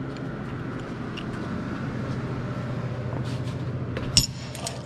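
Steady low hum of running shop equipment, with a few light clicks of handling and one sharp click a little after four seconds in.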